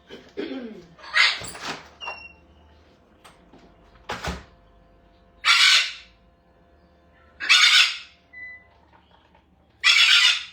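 Pet parrots screeching: four loud, harsh squawks of about half a second each, roughly two seconds apart, with a short whistle and a knock between them.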